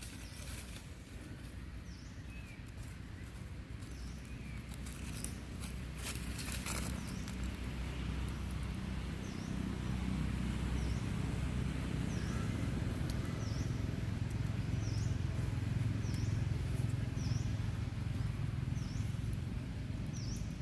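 Outdoor ambience: a short, high call repeated about once a second, like a small bird's, over a low rumble that grows louder about halfway through.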